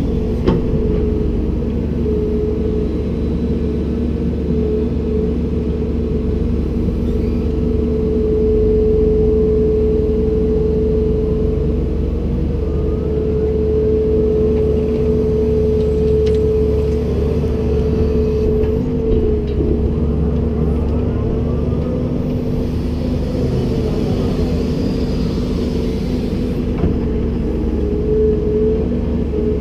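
Komatsu PC290-10 excavator's diesel engine running steadily under a constant low drone, with a steady whine that swells and fades slightly and a few faint clicks.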